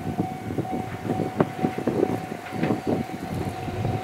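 Ohmi Railway electric train (car 301) moving off at low speed, its wheels clattering unevenly over rail joints and points, with a steady tone held throughout.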